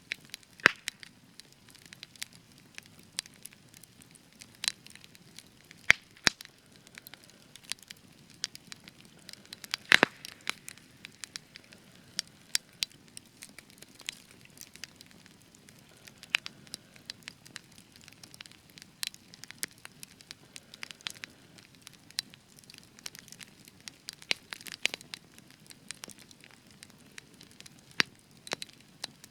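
Spruce wood burning in a campfire, crackling and popping: irregular sharp pops several times a second over a faint low rush of the flames, with a few louder snaps about 1, 6 and 10 seconds in.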